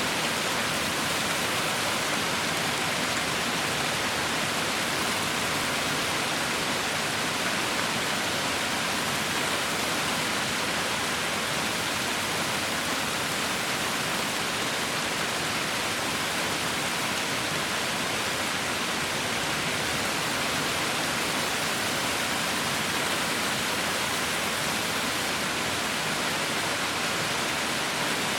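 Heavy rain falling in a steady, even hiss with no breaks or separate drops standing out.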